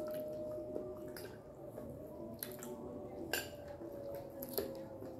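Close-up eating sounds: wet chewing of chicken and pasta, with a few sharp clicks of forks against plates, the loudest about two-thirds of the way in.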